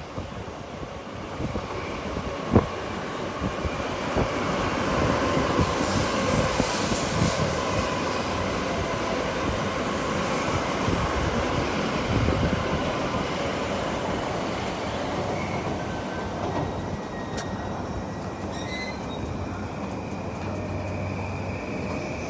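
N700-series Shinkansen train running slowly past, its wheels rumbling on the rails. The sound swells as the cars go by and eases off as the last car passes.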